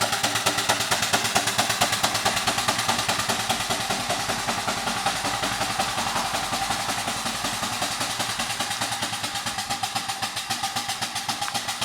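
4-inch scale Burrell traction engine running under steam, its exhaust chuffing in rapid, even beats, several a second.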